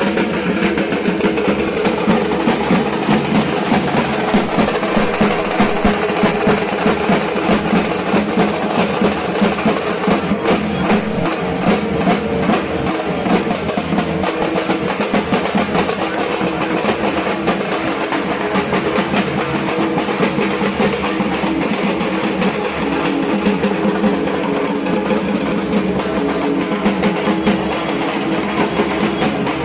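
Dhak, the Bengali barrel drum played with sticks, beaten in a fast, dense run of strokes that goes on without a break.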